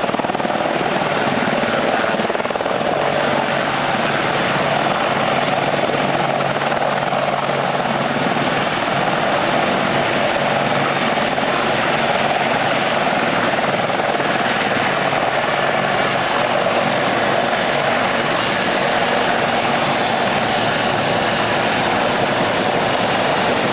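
Military helicopter flying, a loud steady drone of rotor and turbine noise with no break.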